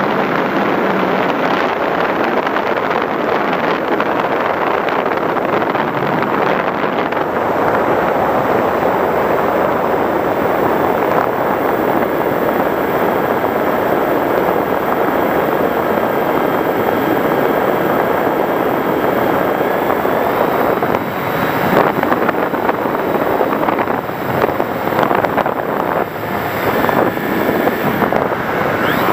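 FPV Raptor RC plane in flight, a loud steady rush of airflow and motor/propeller noise with wind buffeting the microphone. It turns gustier and more uneven about three-quarters of the way through.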